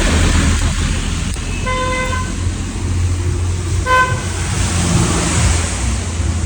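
Motorcycle running along the road with wind noise, and a vehicle horn tooting twice: a half-second toot about two seconds in and a shorter one about four seconds in.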